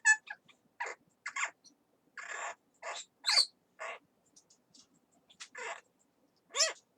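Yellow-crowned amazon parrot giving a run of short squawks and chattering calls, about a dozen brief calls at irregular intervals with short gaps between.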